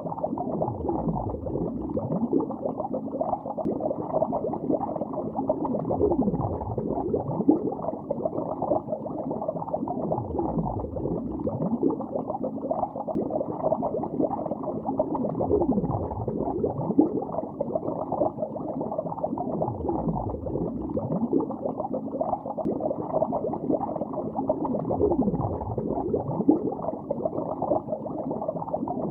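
Bubbles gurgling underwater, heard muffled, a dense steady stream of small pops with a low swell that comes back about every five seconds.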